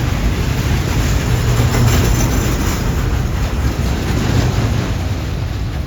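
Freight train of container wagons rolling past, a steady loud rumble of wheels on the rails.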